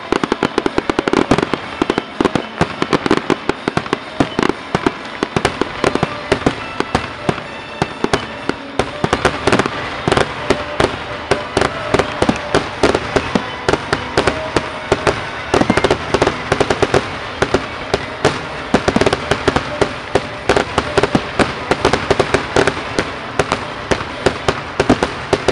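Aerial fireworks shells bursting in a rapid, continuous barrage, many booms and cracks a second overlapping one another.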